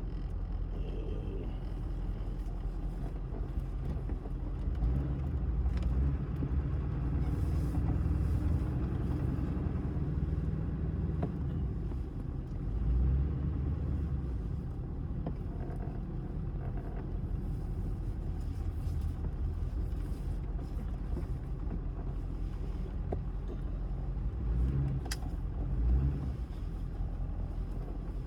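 Car driving, heard from inside the cabin: a steady low rumble of engine and road noise that swells a little in a few places.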